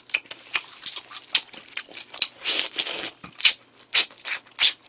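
A person biting into and chewing a spicy sauced smoked chicken wing: a run of irregular crunching clicks and wet chewing sounds.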